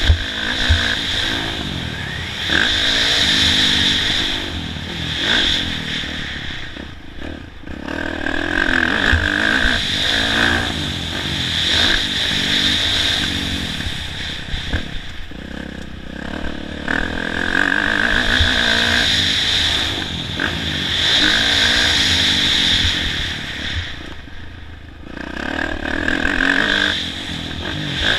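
Motocross bike ridden around a track, its engine revving up hard and dropping off again every few seconds as it accelerates and shuts off for jumps and corners.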